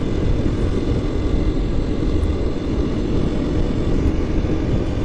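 KTM 350 EXC-F single-cylinder four-stroke dirt bike engine running steadily, heard as a continuous low rumble.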